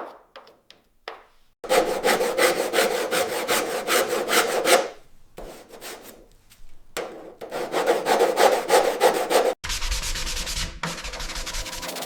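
Hand sanding: two spells of fast, even rubbing strokes, after a few light clicks. A steady hiss with a low rumble takes over for the last two seconds.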